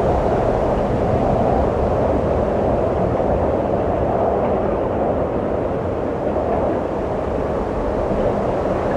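Steady wind blowing in a low, rushing roar with no distinct events, easing a little midway and then swelling again.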